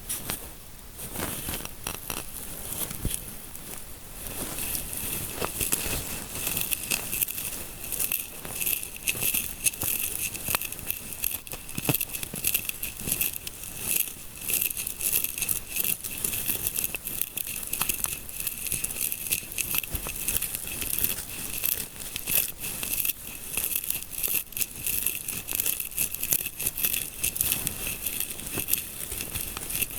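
Close-miked scalp massage ASMR: fingers rapidly scratching and rubbing, giving a dense crackly, crinkling texture that gets busier a few seconds in.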